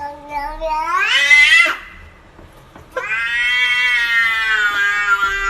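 A cat meowing in two long drawn-out calls: the first rises in pitch and breaks off, the second starts about three seconds in and is held, sagging slightly in pitch.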